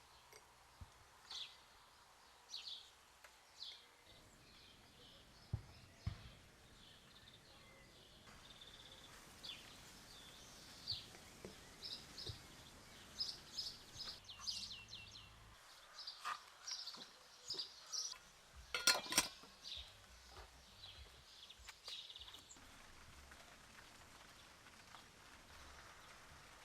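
Small birds singing and chirping over a faint steady background hiss, the calls coming thicker in the middle. A brief run of sharp clicks about two-thirds through is the loudest sound.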